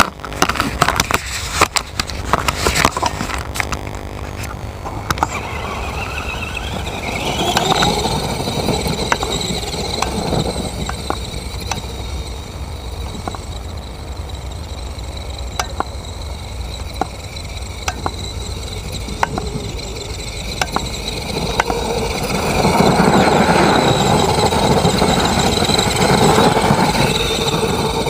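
A truck's motor running under load, with a whine rising in pitch about five to eight seconds in and a louder, harder-working stretch from about 22 to 27 seconds in. Scattered clicks run over a steady low rumble.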